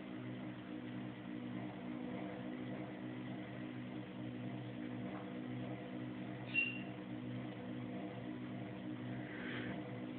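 Kenmore Oasis top-load washing machine running in its spin cycle: a steady motor hum with a slight regular pulse. A short high chirp comes about six and a half seconds in.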